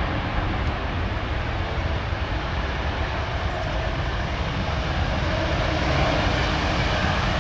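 Jet engines of a Boeing 787-10 Dreamliner on its landing, a steady rumble with a faint hum running through it.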